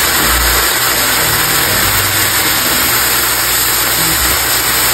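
Steady sizzling of diced bell peppers and meat frying in a pan just after a splash of white wine, stirred with a spatula as the wine cooks off.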